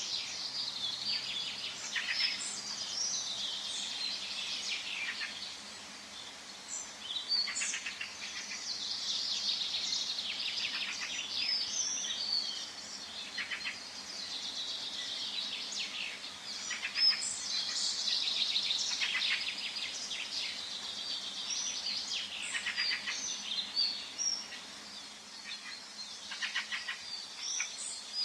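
Several songbirds singing and chirping at once in a forest, with overlapping quick chirps and trills and a faint steady background hiss.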